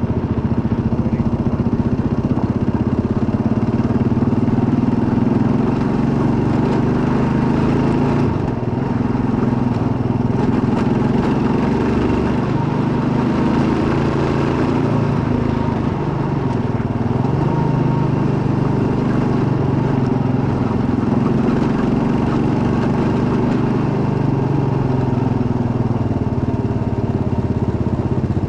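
Kawasaki KLR650's single-cylinder four-stroke engine running steadily under way, its pitch rising and falling with the throttle.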